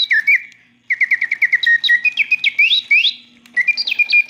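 Bontems / Reuge singing bird automaton whistling a mechanical bird song: quick gliding and stepping whistled notes in phrases, with short pauses between them, blown by its wood and leather bellows and shaped by its cams. A faint steady hum runs underneath.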